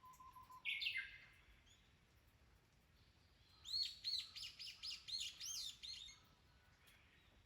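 Wild songbird calling: one short high call about a second in, then a quick run of about ten repeated chirping notes, roughly four a second, ending about six seconds in.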